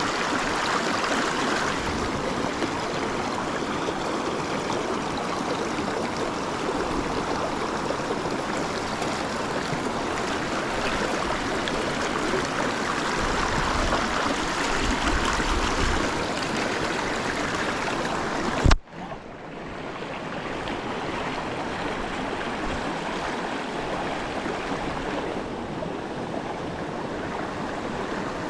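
Small mountain stream running, a steady rush of water. About two-thirds of the way in there is a single sharp click, after which the water sound continues a little quieter.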